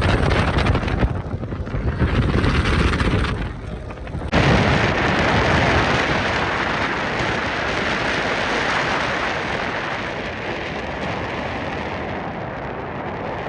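Wind buffeting the microphone on a moving boat, with low gusty thumps. About four seconds in it switches abruptly to a steady rushing hiss of wind and water.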